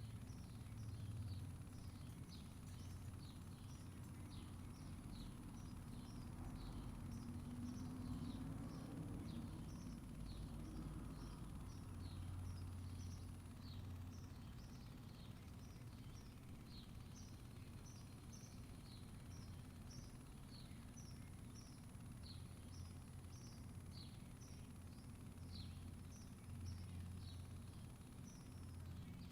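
Faint outdoor ambience: small birds chirping steadily, short high down-slurred chirps two or three a second, over a steady low rumble and a thin high whine.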